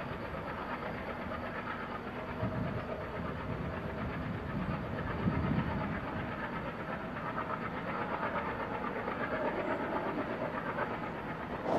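Distant diesel-hauled passenger train running along the track: a steady rumble of its coaches' wheels on the rails.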